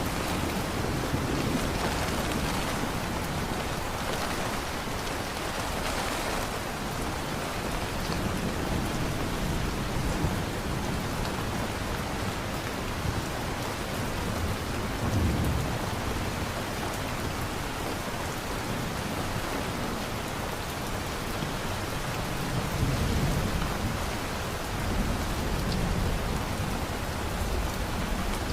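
Steady heavy rain falling, with low rolls of distant thunder swelling about halfway through and again near the end.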